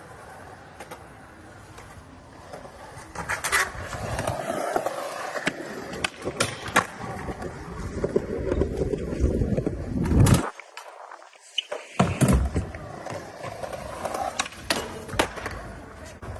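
Skateboard wheels rolling over pavement, with repeated sharp clacks and knocks of the board. About ten seconds in comes a loud pop, and the rolling cuts out for about a second and a half. A hard landing follows and the rolling starts again: the board leaving the ground for a trick and landing.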